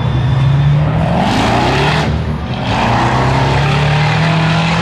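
Car engine held at high revs while its rear tires spin in a burnout. The engine pitch climbs, drops briefly a little after two seconds in, then climbs again, with tire noise swelling over it.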